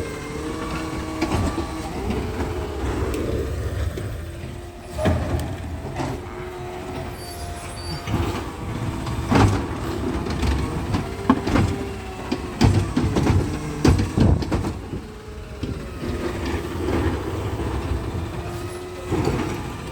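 Garbage truck working: its engine running with a pitched whine that rises and falls, and a string of sharp metal clanks and bangs.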